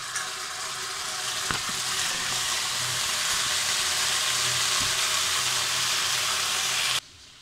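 Tomato sauce sizzling in hot oil with fried chopped garlic in a wok, stirred with a metal spatula, giving a steady, loud hiss with a couple of light knocks. The sizzle cuts off abruptly near the end.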